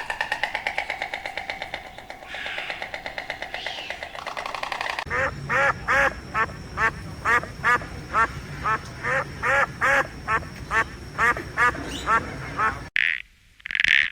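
Duck quacking in a steady series, about two to three quacks a second, starting about five seconds in. Before that a different animal call pulses rapidly, and near the end the sound cuts to short, loud croaking bursts.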